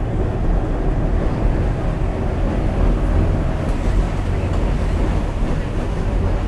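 St. Charles Avenue streetcar running along its track: a steady low rumble of wheels and motor.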